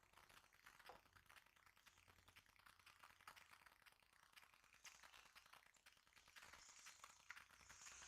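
Near silence with faint scattered small clicks and light rattles, typical of the plastic front fairing of a Honda Biz 125 being worked loose by hand.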